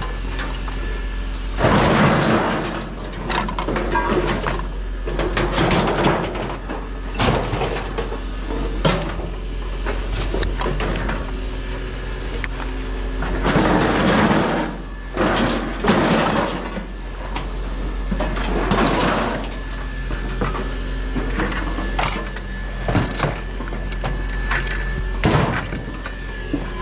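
Discarded electronics being rummaged through and sorted by hand: plastic remotes, controllers and cords clattering and knocking irregularly against each other, in several bursts of handling, over a steady low hum.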